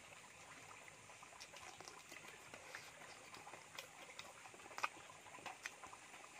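Close-up eating sounds of a man chewing a mouthful of curry and rice eaten by hand: faint wet mouth clicks and smacks scattered throughout, with one louder smack about five seconds in.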